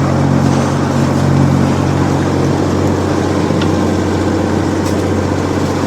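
Boat's engine running steadily under way, a low even drone with a hiss of wind or water over it.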